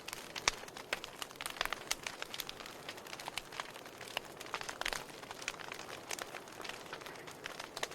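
Wood fire burning in a fireplace, crackling with frequent sharp pops and snaps over a soft steady hiss.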